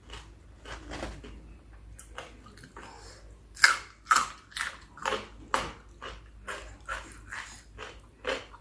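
Close-up eating sounds of spicy chicken feet salad being chewed: quieter chewing at first, then a run of crisp bites and crunches, about two a second, from a few seconds in.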